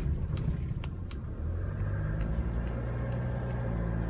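Small truck's engine running under way, a steady drone with a constant pitch that sets in about a second and a half in over a low rumble. A few light clicks in the first second.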